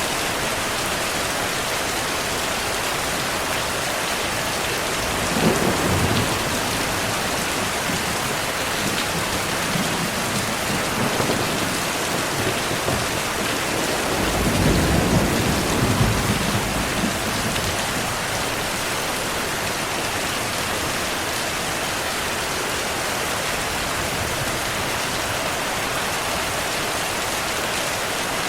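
Heavy rain falling steadily, with two low rolls of thunder: a brief one about five seconds in and a longer one around the middle.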